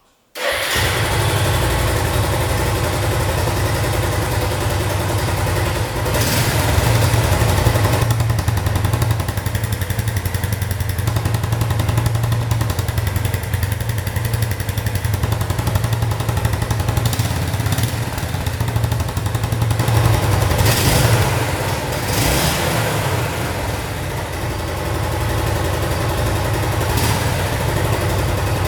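Suzuki GZ250 Marauder's single-cylinder engine idling through an exhaust drilled with holes for a louder note, with a few brief throttle blips.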